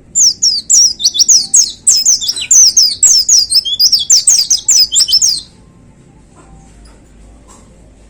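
White-eye (pleci) singing a loud, fast run of high, sharply falling notes for about five seconds, then stopping abruptly. It is the rapid burst of song that keepers call a "tembakan" (shot).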